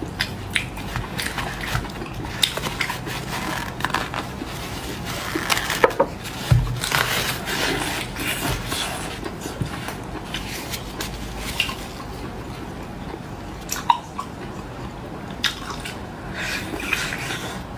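Close-up wet eating sounds of cooked sea-snail meat being bitten and chewed, with many irregular small clicks and smacks and a brief low thump about six and a half seconds in.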